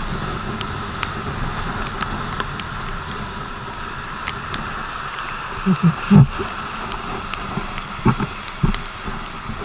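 BMW R 1200 GS motorcycle on the move in the rain: steady wind and road noise with scattered small ticks, and a few short low bumps around the middle and near the end.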